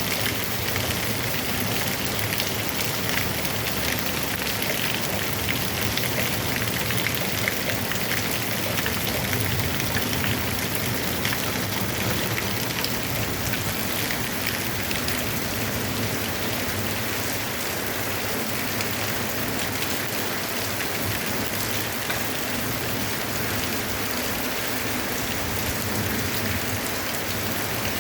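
Heavy rain falling steadily: a dense, even hiss of drops striking surfaces, with fine individual drop ticks throughout.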